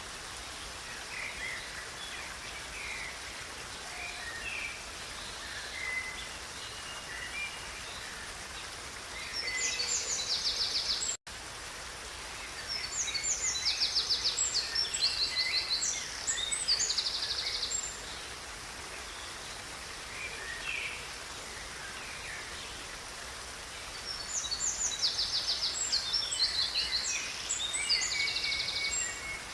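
Steady rushing of a river under songbirds singing: three loud, several-second bursts of rapid trilled song, with scattered shorter chirps between them. The sound drops out for an instant about eleven seconds in.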